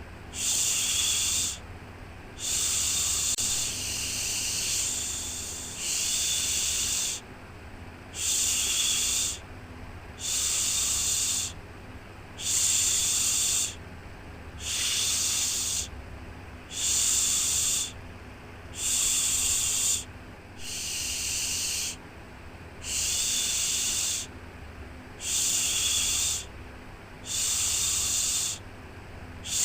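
A rhythmic "shhh" shushing sound for soothing a baby to sleep, repeated about every one and a half to two seconds with short pauses between each shush, over a faint steady low hum.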